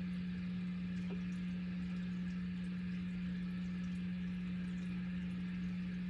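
A steady low hum on a single constant pitch, over a faint hiss, unchanging throughout.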